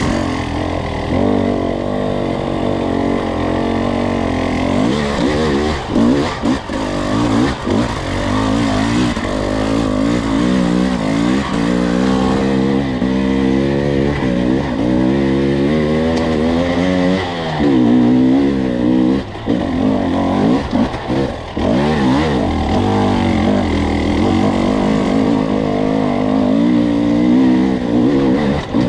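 Two-stroke enduro dirt bike engine pulling at low to middling revs, its pitch rising and falling with the throttle, with short drops off the throttle about six seconds in and again around twenty seconds in. The rider is short-shifting, letting the engine's torque pull the bike through slick, wet trail.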